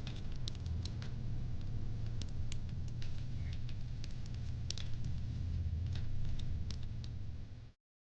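Wood fire in a fire pit crackling, with irregular sharp pops over a steady low rumble of the flames. The sound cuts out abruptly just before the end.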